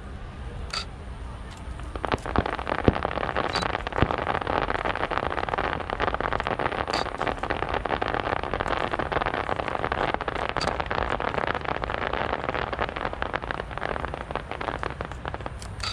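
Fireworks crackling: a couple of sharp bangs about two and four seconds in, then a dense, continuous rapid crackle that thins out near the end.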